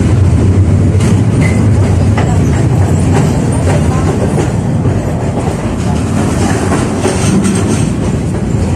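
71-605A (KTM-5A) tram running along the track, a steady rumble of wheels and running gear with a few sharp clicks from rail joints.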